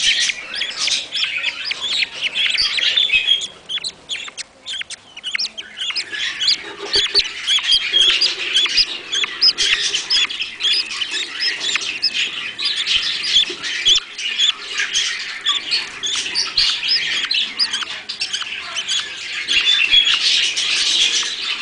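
Budgerigars chirping and chattering in a dense, continuous stream of short, rapid calls, with a brief lull about four seconds in.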